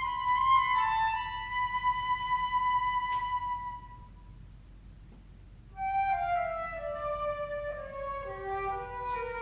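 Flute playing classical duo music: a long held note that fades away, a brief pause, then a run of notes stepping downward in pitch.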